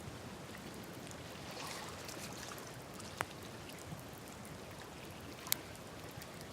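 Wood campfire burning on open ground, a steady hiss with scattered small crackles and two sharper pops, about three and five and a half seconds in.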